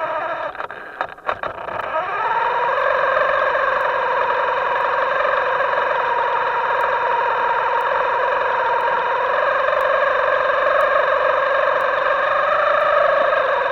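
Electric motor of a Himoto RC boat whining steadily under throttle. It cuts out briefly with a few clicks about a second in, then spins back up to a steady high whine.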